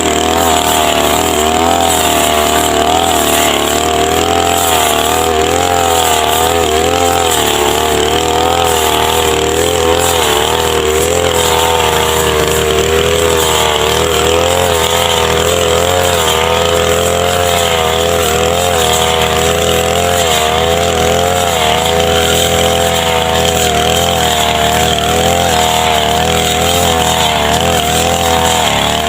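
A grass-cutting machine's engine running continuously at high speed, its pitch wavering slightly up and down.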